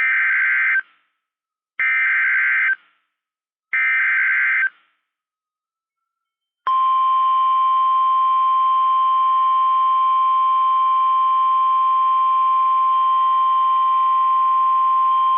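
NOAA Weather Radio emergency alert signal: three short warbling data bursts of the SAME header, then a long, steady, loud single-pitched tone, the 1050 Hz warning alarm tone, starting about two seconds after the last burst. The signal marks the start of a severe thunderstorm warning broadcast.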